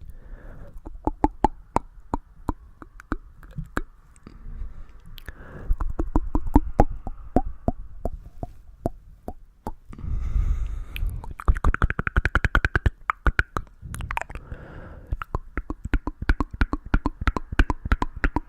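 Close-miked ASMR trigger sounds: a fast, uneven run of crisp clicks and taps, several a second, over a soft low rumble that swells twice.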